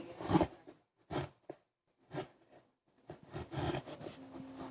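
Hand chisel cutting into wood: a few short scraping strokes spaced about a second apart, then a quicker run of scraping near the end.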